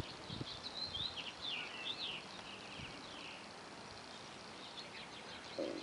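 Small birds chirping in short, high calls, busiest in the first half and again near the end, over faint steady background noise.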